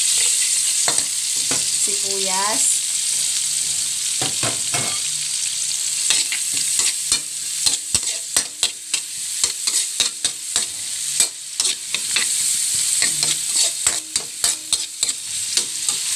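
Garlic and onion sizzling in melted margarine in a pan, with a steady hiss, while a metal ladle stirs them. From about six seconds in, the ladle clicks and scrapes against the pan many times in quick succession.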